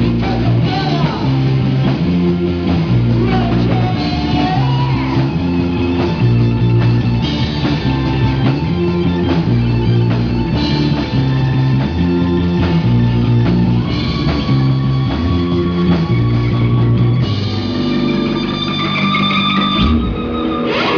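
Rock music played by a band: electric guitar over a drum kit, with a steady beat.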